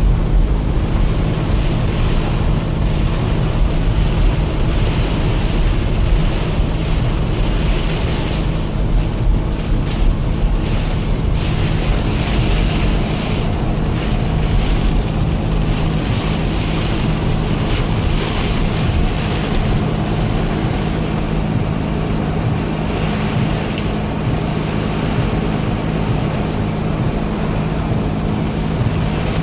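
Heavy thunderstorm rain and water rushing steadily over a car's low engine and road hum.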